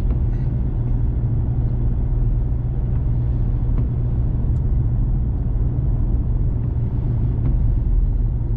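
Steady low rumble of a diesel vehicle driving slowly uphill, heard from inside the cab: engine and tyre noise.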